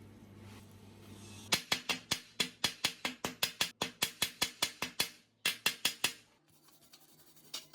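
Quick rhythmic scraping strokes, about four a second, starting about a second and a half in, pausing briefly, then a few more before stopping.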